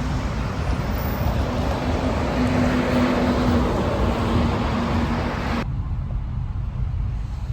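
Steady rumble and hiss of a moving vehicle, with a faint low hum. About three-quarters of the way in, the sound cuts abruptly to a duller, quieter rumble.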